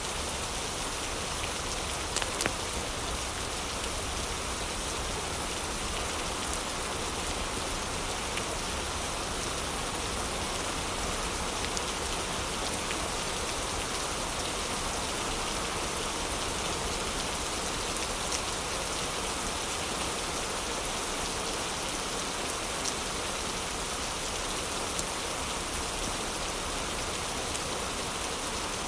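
Steady heavy rain, with a few sharp crackles and pops from a fireplace fire, a small cluster about two seconds in and single ones scattered after.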